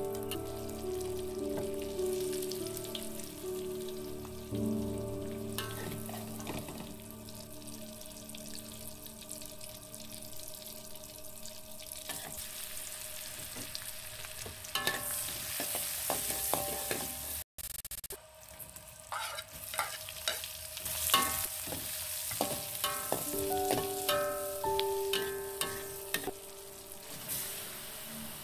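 Food frying in hot oil in a wok: a steady sizzle that grows louder about halfway through, with clicks and scrapes of stirring. Background music with held notes runs underneath.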